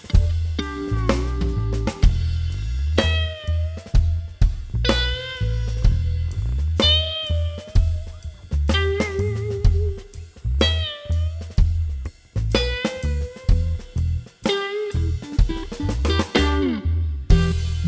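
Electric guitar played through a Keeley Dynatrem tremolo pedal, with bent and wavering lead notes over a drum kit and a pulsing low end.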